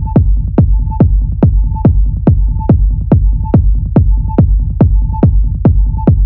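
Electronic dance music: a steady four-on-the-floor kick drum at about two and a half beats a second, each kick dropping in pitch, over heavy bass and a held high tone.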